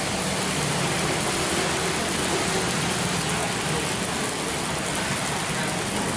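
Steady sizzling hiss of fried rice in a wok over the stove's flame, with no stirring, and a low steady hum underneath.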